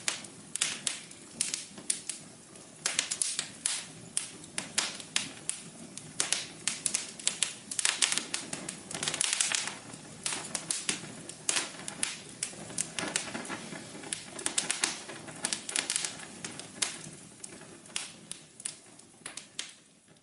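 Wood fire crackling in a fireplace: many irregular sharp pops and snaps over a low, steady rustle of burning, thinning out slightly near the end.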